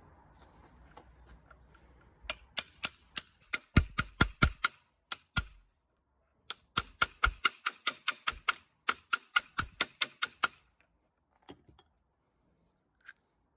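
Quick metal-on-metal taps on a 1-inch socket driving a new seal into a Suzuki GT750 water pump housing. There are two runs of taps, about four a second: the first starts about two seconds in, the second a second after it stops, and they end with a couple of single taps near the end.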